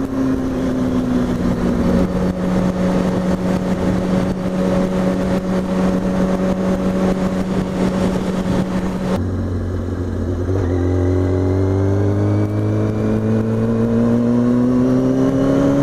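2003 Kawasaki ZX-6R 636's inline-four engine, heard from the rider's helmet over a steady rush of wind, running at steady revs while cruising. About nine seconds in the sound changes abruptly, and the engine note then climbs steadily in pitch as the bike accelerates.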